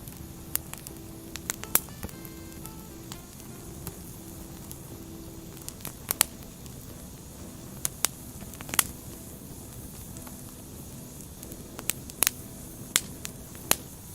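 Burning firewood crackling: irregular sharp pops, about a dozen, over a steady low hiss of the flames, the loudest pops a few seconds apart.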